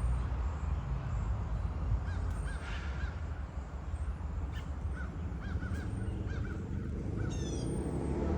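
Crows calling: short, arched caws in quick groups of two or three, repeated several times over a steady low rumble.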